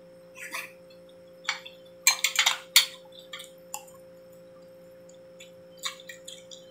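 Close-up chewing and mouth noises of a person eating chicken adobo: a run of short, sharp sounds, loudest between about two and three seconds in, with a few more near the end. A steady hum runs underneath.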